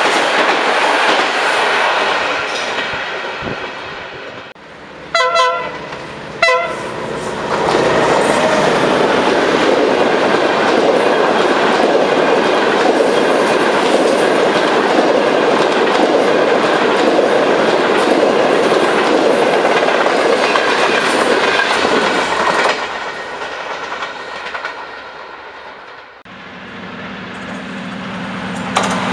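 Long-distance passenger trains running past at speed. The first fades away, then two short horn blasts sound about five and six and a half seconds in, and the next train's coaches rush past for some fifteen seconds before fading. Near the end, a low steady hum comes from another train approaching.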